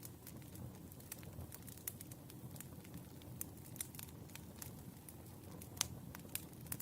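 Firewood burning: irregular sharp crackles and pops over a low, steady rush of flames, with one louder pop near the end.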